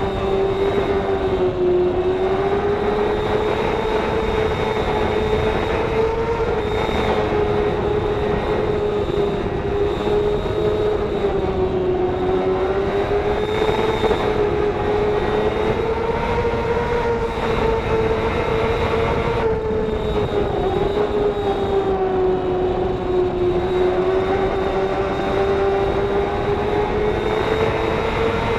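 Racing motorcycle engine screaming at high revs under sustained full throttle, its pitch swelling and sagging only slightly with no sharp gear-change drops.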